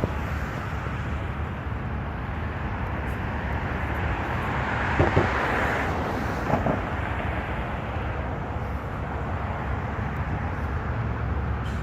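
Recycling truck's engine running steadily, with a swell of noise about four to six seconds in and a couple of short knocks around five and six and a half seconds.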